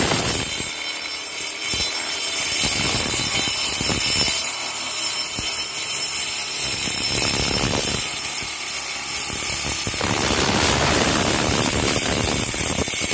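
A small power-tool motor running loud and steady, a harsh whir with a high whine, cutting off just after the end.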